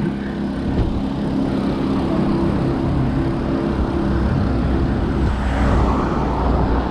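Road noise heard from a moving bicycle: a low wind rumble on the microphone with the steady hum of a motor vehicle's engine nearby, the engine hum dropping away about five seconds in.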